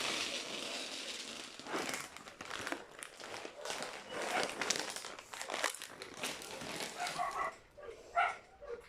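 A bag being crinkled and rustled as it is handled, for about seven seconds; near the end, a few short whines from a dog.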